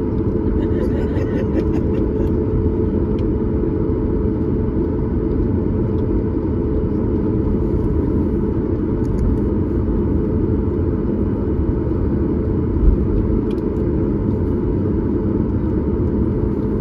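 Steady cabin drone of a Boeing 737 MAX 8, heard from a window seat just behind the wing: its CFM LEAP-1B jet engines running with rushing air and a held hum. There are a few faint rattles about a second in and a brief low thump near the end.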